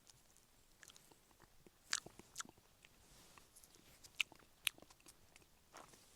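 Footsteps on the forest floor: faint, irregular crunches and sharp clicks of twigs and debris underfoot, a few louder snaps among them.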